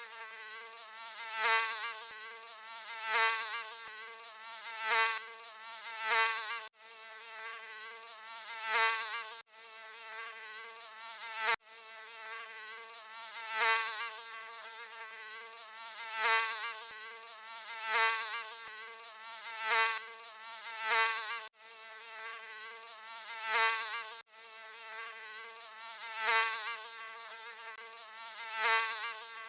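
Mosquito wing whine: a steady high-pitched buzz that swells loud and fades back roughly every couple of seconds, as when one flies close past the ear. It cuts out for an instant a few times.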